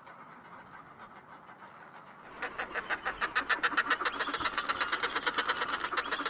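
Northern fulmar cackling: a fast, even run of harsh, guttural pulses that starts about two seconds in and keeps going, over a faint steady hiss.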